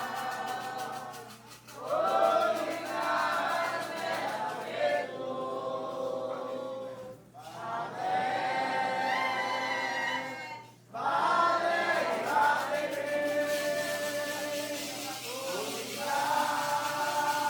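A group of voices singing a Candomblé cantiga (chant) for the orixá Xangô in sung phrases of a few seconds each, with short pauses between them.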